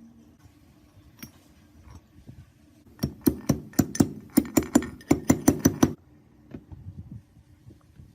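Hammer tapping on metal: a quick run of about a dozen sharp ringing knocks, roughly four a second, starting about three seconds in and stopping abruptly, with a few lighter clicks before and after.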